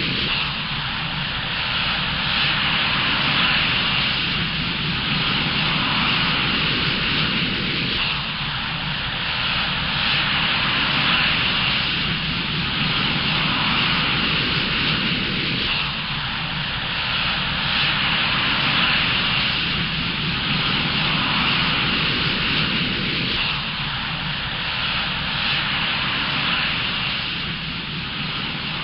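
Jet aircraft engine sound effect, a steady rushing whine that loops, repeating about every eight seconds.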